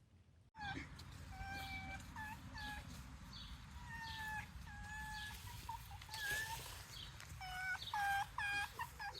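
Pet fox making a series of high whining calls, some long and level, others short and scooping, with a quicker run of calls near the end.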